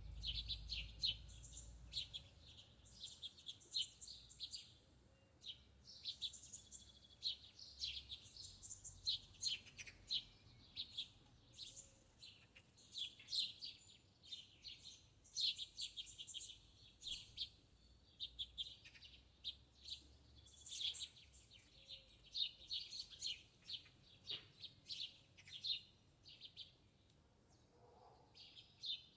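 Small birds chirping: quick, high chirps in bursts, one after another.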